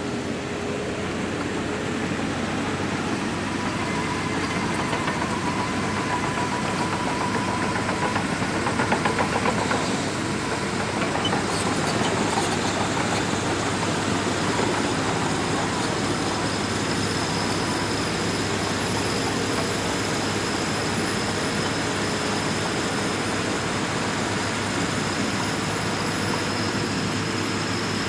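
Diesel engine of a Shantui DH17C2 bulldozer running steadily under working load, with a slightly louder, rougher stretch about eight to ten seconds in and a faint high whine in the later part.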